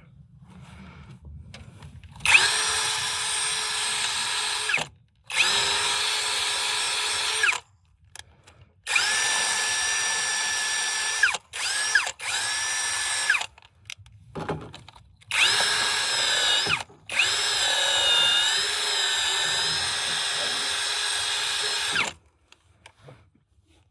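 Power drill motor whining in about six runs of a few seconds each, with short pauses between, starting about two seconds in; in a few runs the pitch dips briefly as the bit takes load.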